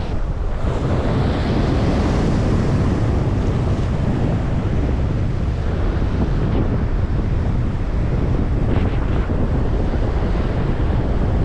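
Strong wind buffeting the microphone in a steady rumbling roar, with surf washing on the shore underneath.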